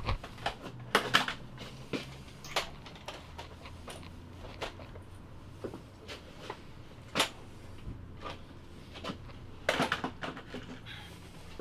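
Guns being picked up off a wooden table and handled: scattered clicks, knocks and clatter, the loudest about a second in, around seven seconds and again near ten seconds.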